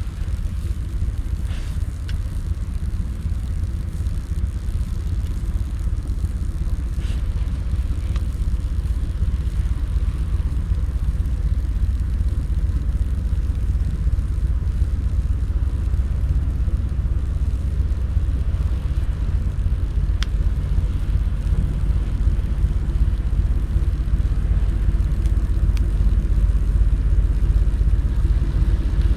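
Campfire of gathered branches and driftwood burning, with a few sharp single crackles scattered through, over a steady low rumble.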